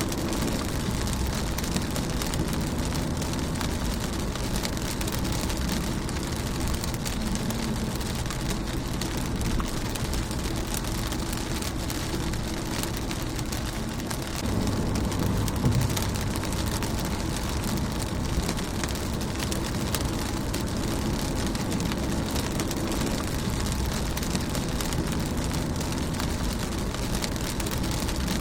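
Rain falling steadily on a car's windshield: a dense patter of drop ticks over a steady low rumble, a little louder about halfway through.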